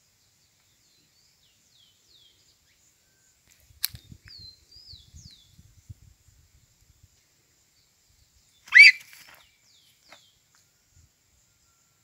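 Wild birds calling outdoors: after a few quiet seconds, a run of short, high, falling chirps, with one loud call sweeping quickly upward near the end. A sharp click about four seconds in and a faint low crackle for a couple of seconds after it.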